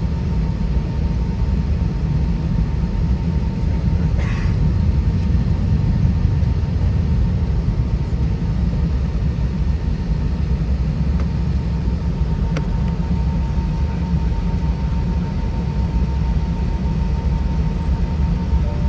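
Steady low rumble of cabin noise inside an Airbus A320-232 with its IAE V2533 engines running, with a faint steady whine over it. A brief soft sound comes about four seconds in and a click about twelve seconds in.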